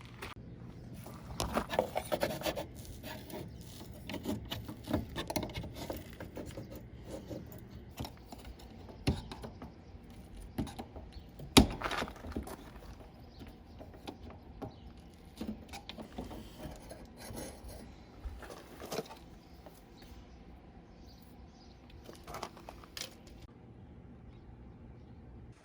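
Scattered clicks, knocks and scraping of tools and panel parts being handled while an RV furnace is taken apart, with one sharp knock about halfway through.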